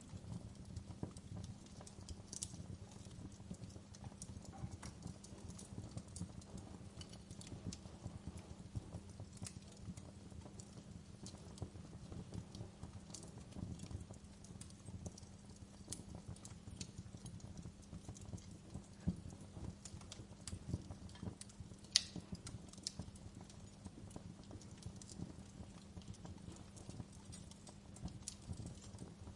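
Burning wood crackling steadily in a campfire, with dense small crackles and now and then a sharper pop, the loudest about 22 seconds in.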